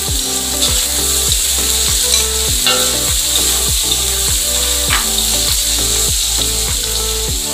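Salted squid sizzling in hot oil in a wok as it is stirred and tossed with a metal spatula: a steady frying hiss with the scrape of the spatula.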